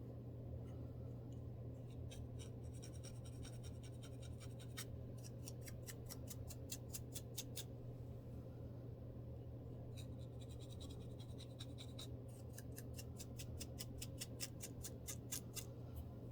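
A scalp being scratched through the hair to lift dandruff, in two runs of quick, sharp scraping strokes, about four or five a second, with a short pause near the middle. A steady low hum lies underneath.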